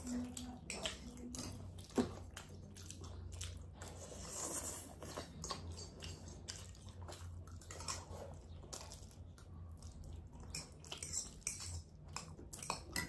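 Forks and spoons clinking and scraping against ceramic bowls as two people eat ramen noodles, with quiet chewing; one sharper clink about two seconds in.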